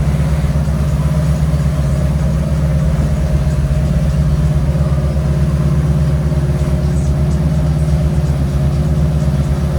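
Boat's engine running steadily underway: a loud, even low drone.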